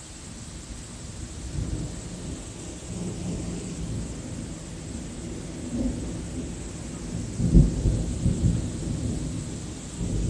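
Thunder rumbling long and low, swelling in waves and loudest about seven and a half seconds in, over a steady hiss of rain.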